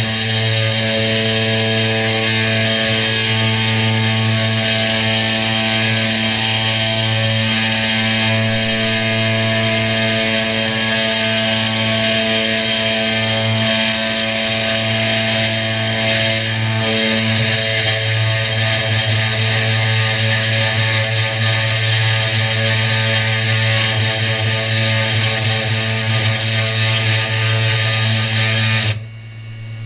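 Spindle motor of a small CNC 3018 router running steadily while milling, a constant whine with a dense noise of cutting over it. It cuts off suddenly near the end.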